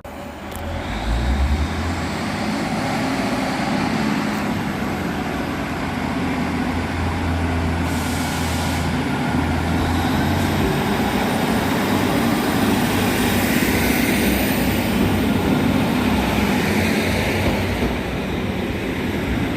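Train running close by: a steady low engine rumble, with a high whine that rises about ten seconds in.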